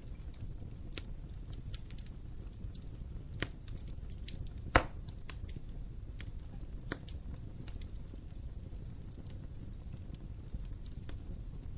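Wood fire burning in an open fireplace: a low rumble of flames with irregular crackles and small pops, and one sharp, much louder pop about halfway through.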